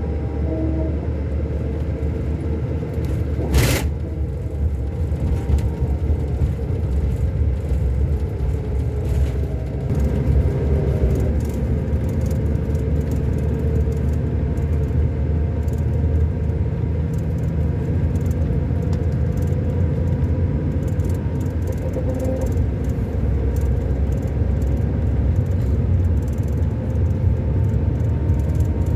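Scania K400 Euro 5 diesel engine of a double-decker coach running steadily, a continuous low rumble. There is a single sharp knock about three and a half seconds in, and it gets slightly louder about ten seconds in.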